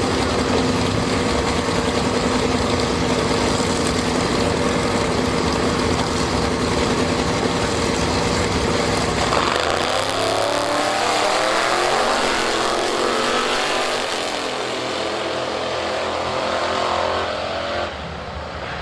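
Sportsman drag racing car engine running steadily at the starting line, then launching about nine seconds in and accelerating away, its pitch rising as it pulls down the track and fades.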